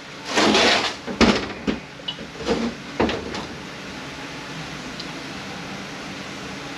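Metal transmission parts and tools handled on a workbench: a brief scrape, then several sharp knocks and clanks over the next couple of seconds, followed by a steady background hiss.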